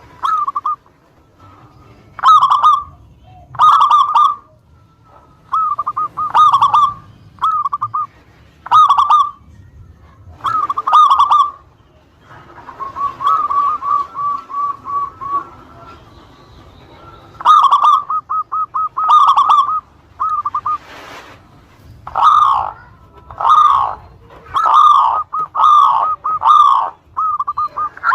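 Zebra dove (perkutut) cooing: short phrases of quick, rippling notes repeated every second or two. About halfway through comes a quieter run of evenly spaced notes.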